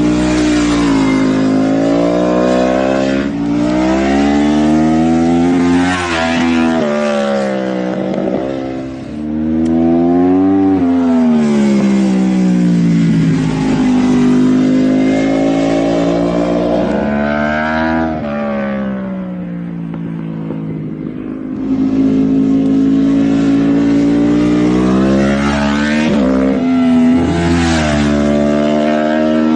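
Yamaha R1 (RN22) crossplane inline-four engine revving up and down again and again, its pitch rising under acceleration and falling back, with a couple of seconds of steadier, quieter running about two-thirds through.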